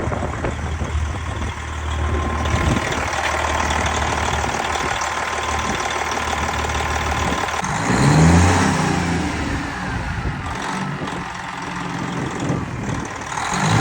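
Straight-piped Freightliner Coronado semi truck's diesel engine running, a steady low drone that turns into a loud, rough exhaust rasp a couple of seconds in, swelling louder about eight seconds in.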